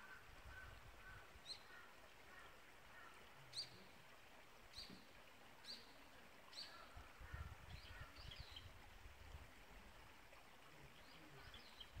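Faint calls of a small wild bird: short high chirps about once a second, then quicker clusters of chirps, over the soft steady hiss of a nearby stream. A low rumble comes and goes now and then.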